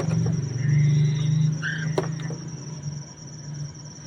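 A masked laughingthrush (poksay mandarin) gives a few short call notes over a low motor drone that fades away after about two and a half seconds. A thin, steady high-pitched tone runs underneath, and there is a single sharp click about two seconds in.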